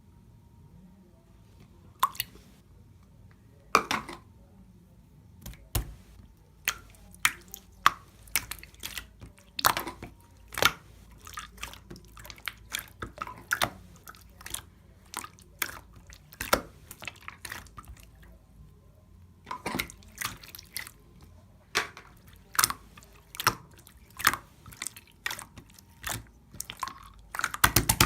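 A close-up run of irregular wet clicks and pops, several a second, with a short pause about two-thirds of the way through.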